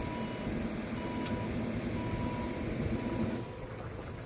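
Lift-bridge warning beeper sounding a steady electronic beep about once a second, each beep about half a second long, while the bridge goes up. Beneath it runs a low engine hum that drops off about three and a half seconds in.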